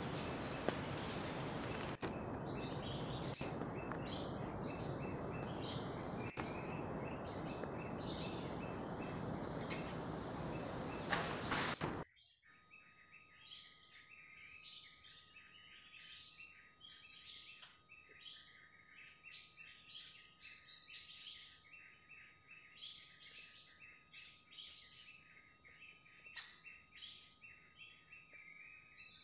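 Birds chirping, many short calls, over a loud steady rushing noise that cuts off suddenly about twelve seconds in; after that the chirping goes on over a quiet background with a faint steady high tone.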